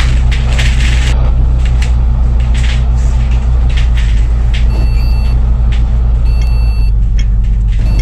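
Diesel engine of a double-decker bus running steadily, heard from inside the cabin, with rattles and clicks from the bodywork. From about halfway a short high beep starts repeating every second and a half.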